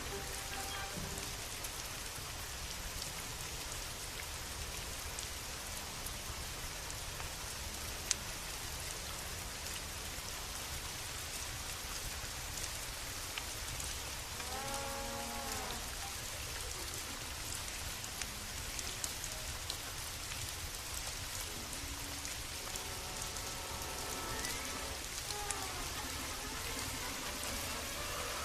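Steady rain falling, with scattered sharp clicks. A short pitched call rises and falls about halfway through, and fainter pitched sounds come near the end.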